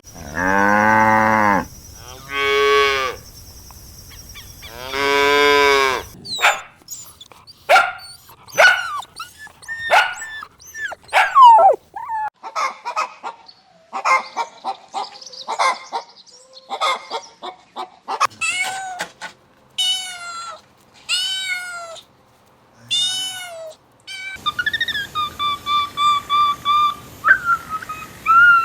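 Cow mooing three times in long, low calls. These give way to a run of short, quick high-pitched animal calls, then a few evenly spaced arched calls, and near the end a longer held high call.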